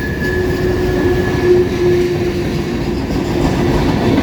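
Freight cars of a long CSX manifest train rolling past close by: a steady loud rumble of steel wheels on rail, with a thin steady squeal over it that fades in the second half.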